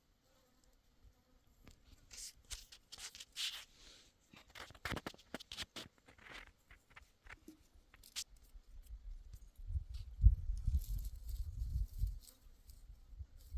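Irregular dry rustling and crackling with scattered sharp clicks, followed from about two-thirds of the way in by a low rumbling.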